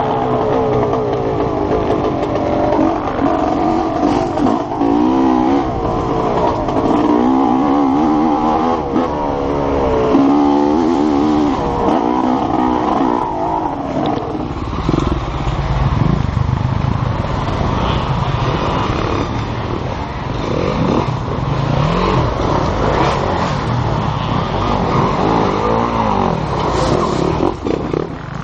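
Enduro motorcycle's two-stroke engine revving hard and falling off again and again as it is ridden along a dirt trail, its pitch constantly rising and dropping.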